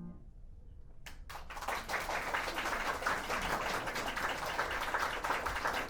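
The Steinway grand's last held chord stops right at the start; after about a second of quiet, a couple of single claps come, then audience applause from about a second and a half in.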